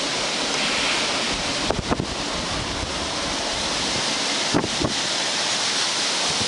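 Storm-force wind rushing steadily, with gusts buffeting the microphone about two seconds in and again near five seconds.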